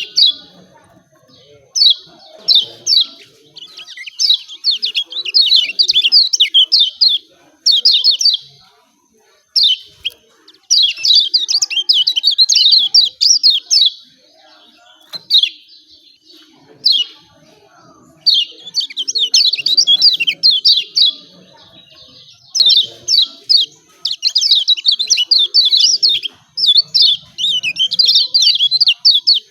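Lemon-bellied white-eye (kecial kuning) giving its 'ciak ciak' call: rapid, high-pitched chirps in bursts of one to three seconds, with short pauses between bursts.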